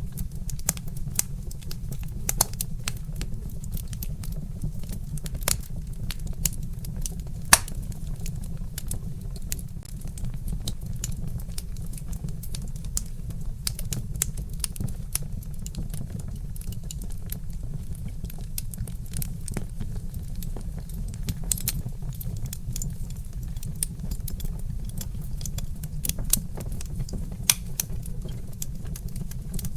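Wood fire crackling, with irregular sharp pops and snaps, one louder pop about seven seconds in, over a steady low rumble.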